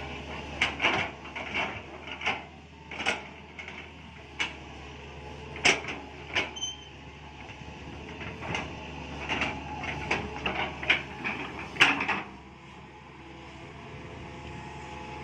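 Mini excavator engine running steadily under a string of sharp, irregular knocks and clanks from the machine at work, which stop about twelve seconds in, leaving only the engine.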